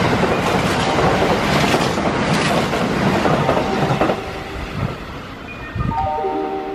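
Kintetsu 21020 series Urban Liner Next limited express passing through the station at speed: a loud rush of wheels on rail and moving air that drops away after about four seconds as the last car clears the platform. A few steady tones sound near the end.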